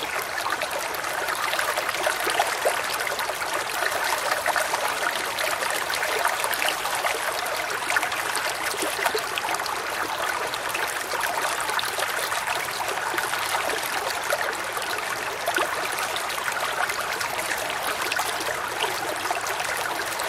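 Shallow woodland creek flowing and babbling steadily, with small splashes and bubbling over stones.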